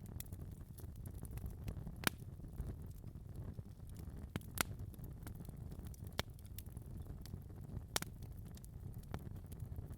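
Fireplace fire crackling: a steady low rumble of flames with frequent small snaps and three louder pops, about two, four and a half and eight seconds in.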